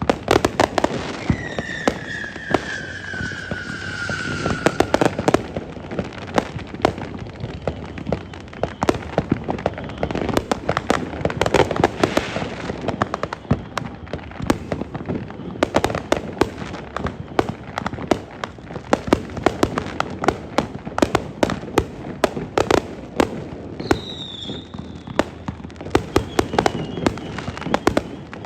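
Fireworks display: a dense, continuous run of sharp cracks and bangs. A whistle that slowly falls in pitch sounds over about four seconds near the start, and a shorter whistle comes near the end.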